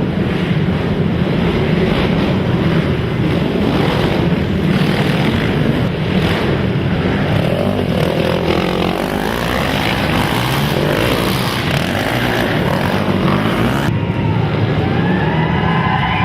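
Racing quad (ATV) engines running and revving together, loud and continuous, their pitch rising and falling as the riders work the throttles. Near the end one engine's revs rise and fall more clearly above the rest.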